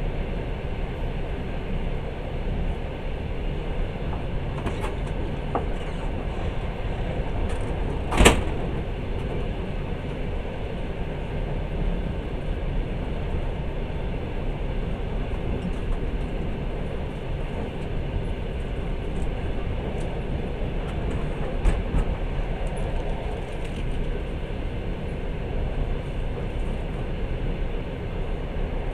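Passenger train running at speed, a steady rumble and rush heard from inside the carriage. A single sharp knock stands out about eight seconds in, and a fainter one comes near the end.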